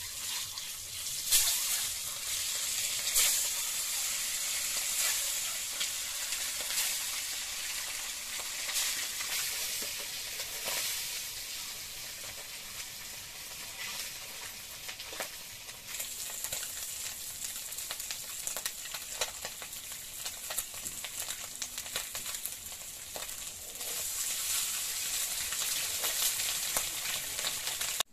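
Food sizzling as it fries in a pan, with the scattered clicks and scrapes of a spatula stirring it.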